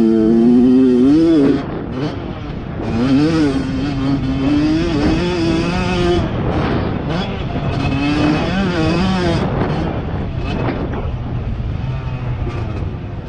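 Dirt bike engine revving up and down repeatedly as it is ridden, the pitch climbing and falling several times.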